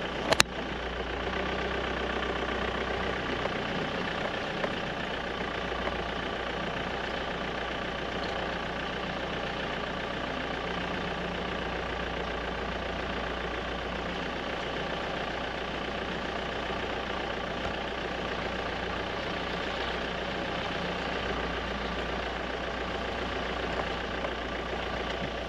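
A vehicle's engine running steadily at low speed as it drives along a grass track, with a single sharp click at the very start.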